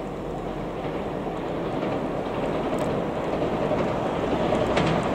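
A 381 series limited-express electric train approaching, its running noise growing steadily louder, with the first sharp wheel clacks near the end.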